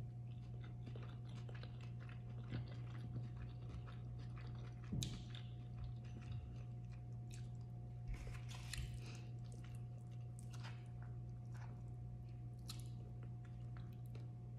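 Close-up chewing of a mouthful of rice bowl with chicken, salad greens and avocado: wet mouth sounds with scattered crunches and clicks, the loudest about five seconds in and again around eight to nine seconds. A steady low hum sits underneath.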